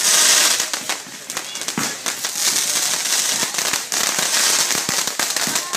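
Aerial fireworks bursting overhead into crackling stars: a loud burst at the start, then a dense, irregular run of sharp crackles and pops.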